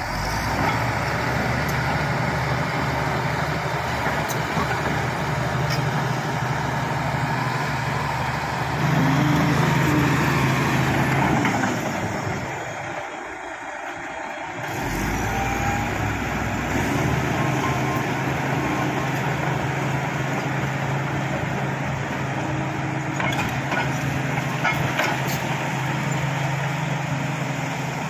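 Shantui SD16 bulldozer's diesel engine running under load as it pushes fill. It grows louder about nine seconds in, eases off briefly around thirteen seconds, then picks up again. A few sharp clanks come late on.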